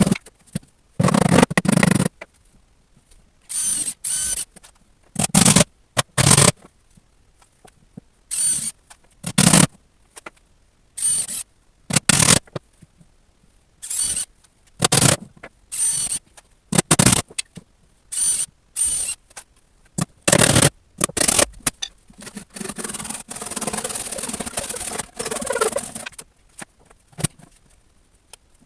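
Woodworking tool noise in many short, separate bursts of scraping and whirring, with a longer stretch of several seconds near the end.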